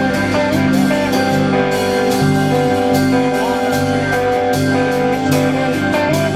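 Live rock band playing an instrumental passage: guitars over a repeating bass line and a steady drum beat.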